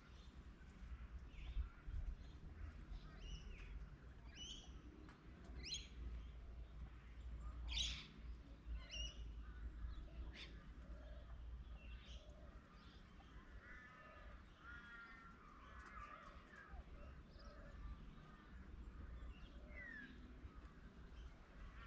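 Birds calling faintly: scattered short, sharp high calls, then a run of quick warbling notes a little past halfway, over a steady low rumble.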